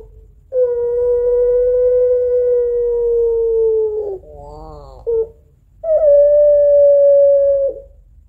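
Female puter pelung, a long-voiced ringneck (Barbary) dove, giving its long, drawn-out crying call: one steady held note of about three and a half seconds that ends in a short wavering warble, a brief note, then a second held note of about two seconds. This is the female's long call for a male.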